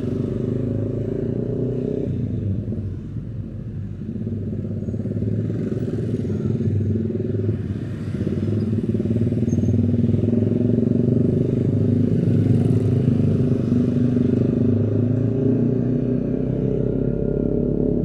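Motor scooter engine running while riding in traffic, a steady hum that eases off about three seconds in and again near eight seconds, then picks up.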